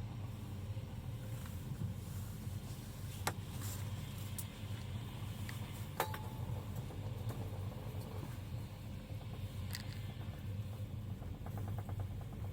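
Steady low rumble of a passenger train running, with a few sharp clicks and knocks along the way.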